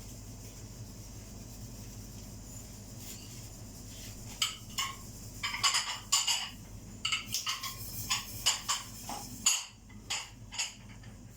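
Dishes and kitchenware clattering: a quick run of a dozen or so sharp clinks and knocks starting about four seconds in and stopping near the end, over a steady low hum.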